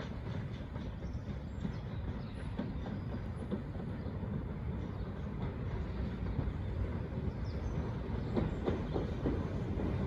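Train running along the rails: a steady low rumble with scattered clicks from the wheels, a cluster of them near the end as it gets slightly louder.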